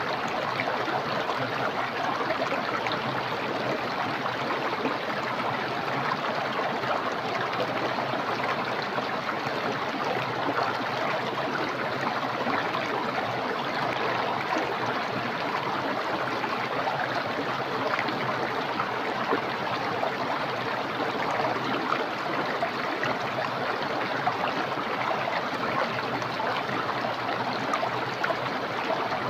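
Small, clear, fast-flowing stream rushing and splashing in an even, unbroken wash of water noise.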